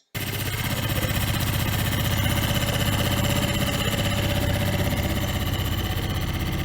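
Suzuki DF4 single-cylinder four-stroke outboard engine running steadily at idle, with a new water-pump impeller fitted. It starts suddenly just after the opening.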